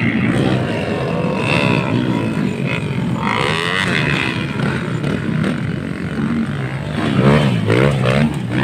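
Motocross dirt bike engines revving, their pitch climbing and falling as the throttle opens and closes. There is one burst about three seconds in and a louder run of rising and falling revs near the end.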